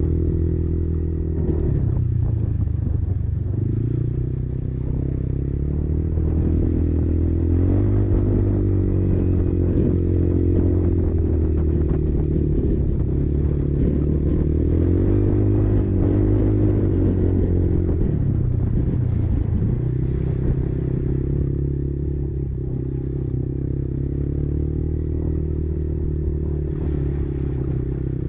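Kymco Maxxer 300 quad's single-cylinder four-stroke engine running under load, its pitch rising and falling over and over as the throttle is opened and eased off.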